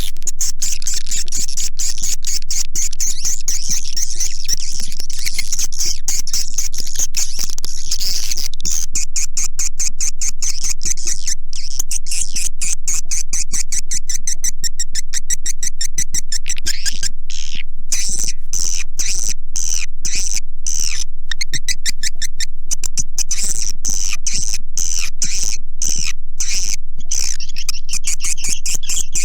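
Recorded swiftlet calls used as a swiftlet-house lure: a continuous, dense high-pitched twittering of chirps and rapid clicks. A lower chirping line joins it about halfway through.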